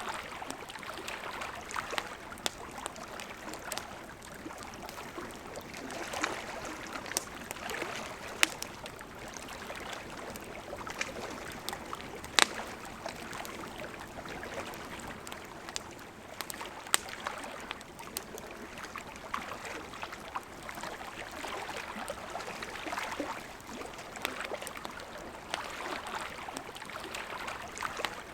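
River water flowing steadily and gently swelling, with a campfire crackling: sharp pops every few seconds, the loudest about twelve seconds in.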